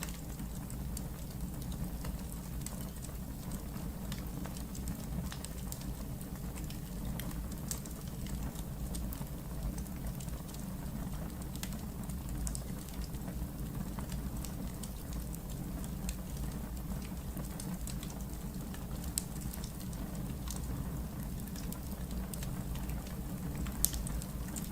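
Wood fire in a fireplace crackling: scattered sharp pops and ticks over a steady low rumble, with a louder pop near the end.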